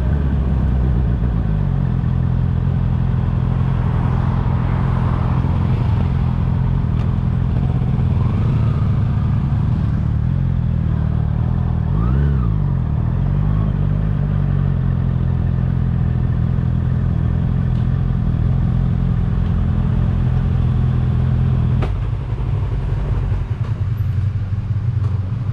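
Honda CBR650R's inline-four engine through an Akrapovic exhaust, running at steady revs. About halfway through, the pitch briefly dips and comes back. A few seconds before the end there is a click, and the engine note drops lower and rougher.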